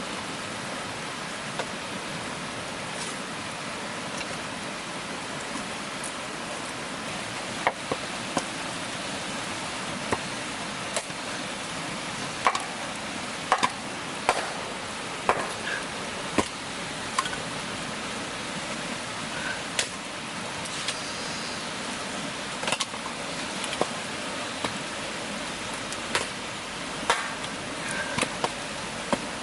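Steady rain hiss, with irregular sharp taps and knocks from about a quarter of the way in, some with a short ringing tone; the knocks are the loudest sounds.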